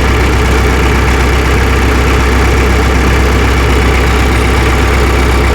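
Tractor engine idling steadily with a constant low hum.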